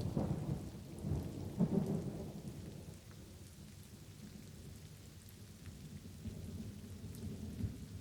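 Light, steady rain with a roll of thunder rumbling low in the first two seconds or so, then fading away beneath the rain.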